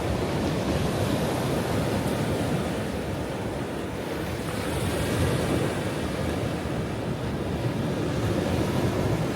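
Ocean surf: waves breaking and washing on the shore in a continuous rush, deepest in the low end, swelling and easing gently in level.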